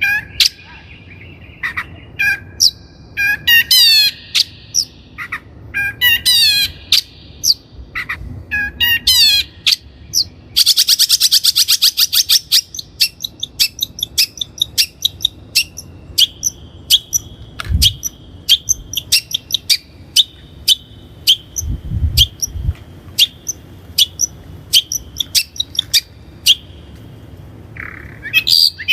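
Long-tailed shrike (Lanius schach) singing a varied string of sharp chirps and harsh calls with quick falling notes, and a fast, buzzing rattle about ten seconds in.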